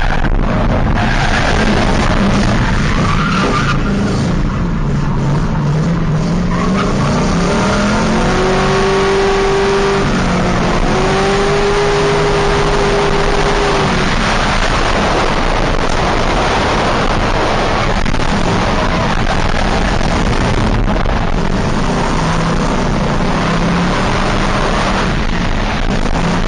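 Drift car engine revving hard under a dense hiss of sliding tyres. The engine pitch climbs from about four seconds in and holds high for several seconds before falling back.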